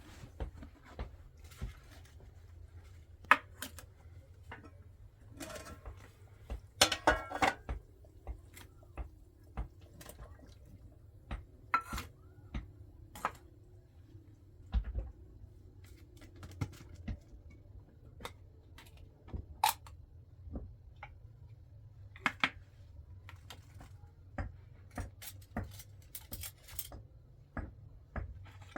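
Scattered light knocks, clicks and clinks of objects being handled, with a louder cluster of clatter about seven seconds in, over a low steady hum.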